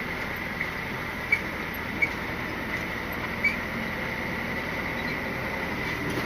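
Cab interior of a Scania R450 lorry moving slowly, its six-cylinder diesel running with a steady hum, with a few faint, irregular squeaks or ticks from the cab.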